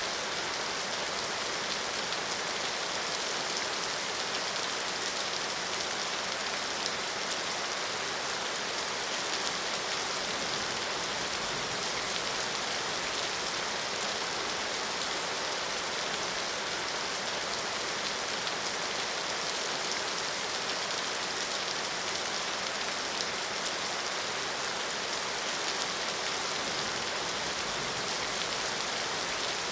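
Steady rain falling, a dense, even hiss of drops on surfaces with no let-up.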